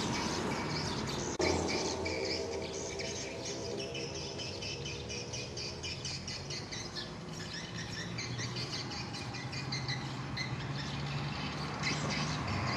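Many edible-nest swiftlets twittering, dense rapid chirps overlapping, over a steady low hum. The sound changes abruptly about a second and a half in.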